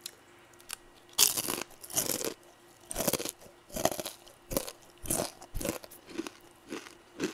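Close-miked crunching and chewing of crispy fried chicken: a loud crunch about a second in, then steady crunchy chews, nearly two a second.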